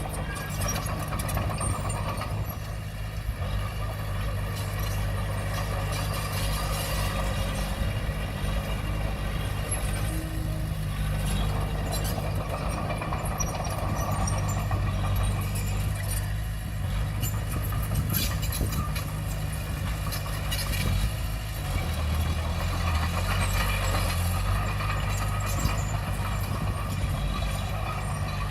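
Komatsu D20P bulldozer's diesel engine running steadily under work, with the metallic clatter and squeal of its steel tracks.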